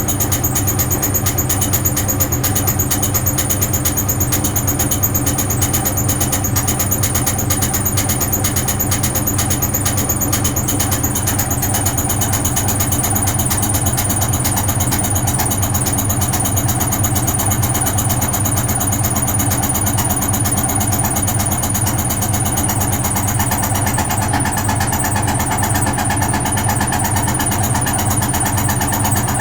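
Vintage Frigidaire Super Deluxe Automatic 50 front-loading washing machine running late in its wash cycle: a loud, steady drone from its induction motor and drum, with a fast rattle. The tone shifts and brightens about three quarters of the way through.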